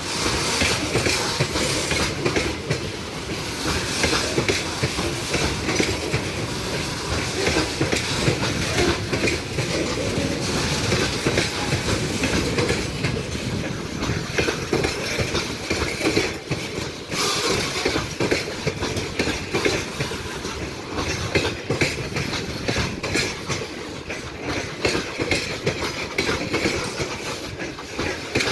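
A train rolling past at close range, its wagon wheels clattering over the rail joints in a steady, unbroken run of clicks.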